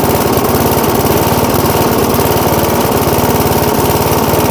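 1979 Rocket push mower's 3.5 hp Briggs & Stratton single-cylinder engine running steadily at speed after a hard revival, starting to clear out and smooth out.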